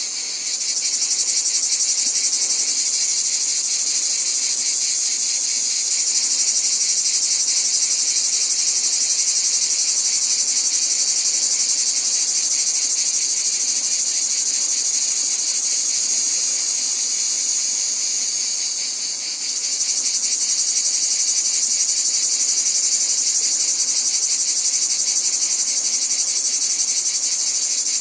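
A dense, steady chorus of insects trilling at a high pitch with a fast pulse. It dips briefly about nineteen seconds in, then comes back.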